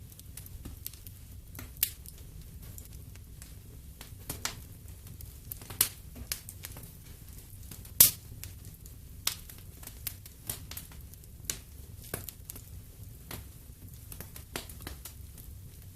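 Wood fire in a fireplace crackling, with irregular sharp pops over a low steady rumble; the loudest pop comes about halfway through.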